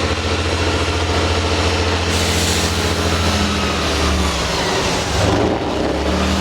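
Subaru car engine running steadily under light load as the car is driven slowly over an off-road course, its note shifting briefly about four to five seconds in.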